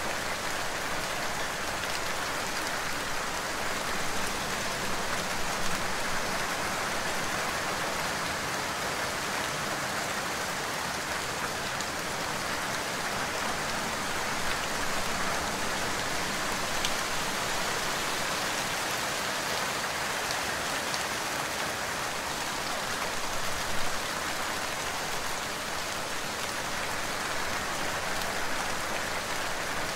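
Steady rain falling, an even hiss with a couple of slightly louder moments.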